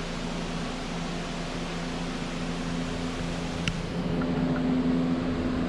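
A running machine gives a steady low hum over an even rushing noise, like a fan. There is one light click about two-thirds through, and the sound gets a little louder after it.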